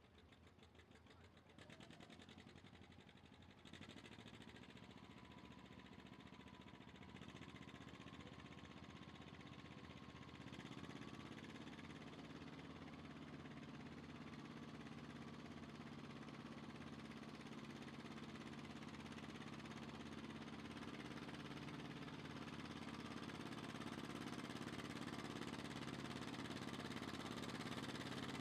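A pulling vehicle's engine running at a steady pitch, gradually growing louder in a few steps.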